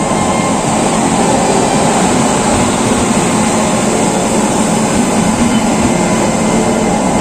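Express train of LHB coaches hauled by an electric locomotive rolling along a station platform: a steady, loud rumble of the coaches running past.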